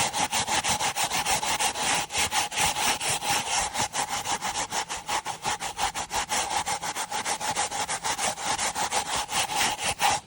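Stiff brush scrubbing carpet or upholstery in rapid, even back-and-forth strokes, working stain extractor into stains.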